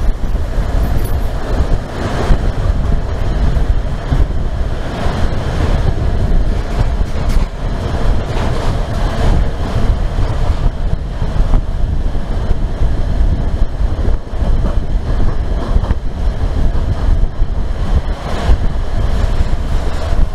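Passenger train running through a rail tunnel, heard from beside an open coach window or door: a loud, steady low rumble of wheels on rail, with scattered clacks.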